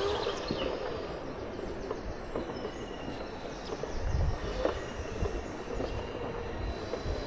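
Segways rolling along a path: steady tyre rumble with a faint electric motor whine, and low buffeting of wind on the microphone about four seconds in and again near the end.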